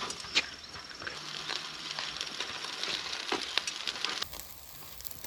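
Mackerel sizzling on a grill over a wood-charcoal fire: a steady hiss with many scattered crackles and pops, easing off about four seconds in.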